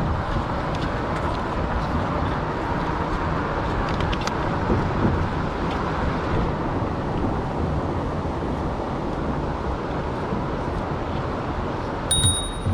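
Steady wind and rolling noise buffeting a chest-mounted action camera on a moving e-bike, with a faint steady whine underneath. Near the end comes a brief high-pitched ring.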